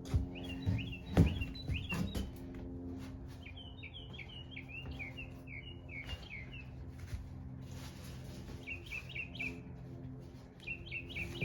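A small bird chirping in several runs of quick, short notes, over a steady low background hum of music. A few sharp clicks come in the first two seconds, the loudest about a second in.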